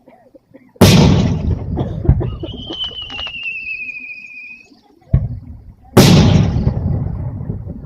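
Two large aerial firework shells bursting, about a second in and again about six seconds in, each a sudden loud boom that rumbles away over a few seconds. A short sharp pop comes just before the second boom, and a high wavering whistle, falling slightly, sounds for about two seconds between them.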